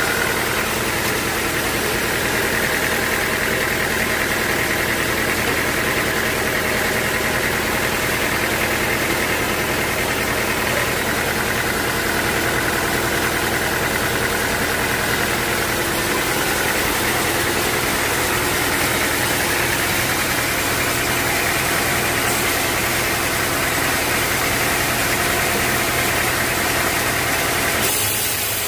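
Sawmill machinery running steadily: a constant motor hum with a higher whine above it, which changes abruptly near the end.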